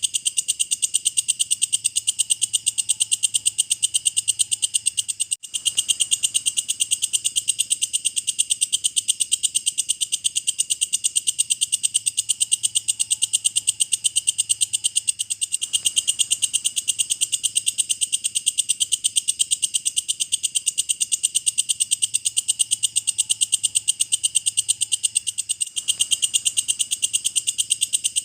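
Walang kecek insect stridulating: a continuous, fast and evenly pulsed high-pitched chirring, with a brief break about five seconds in.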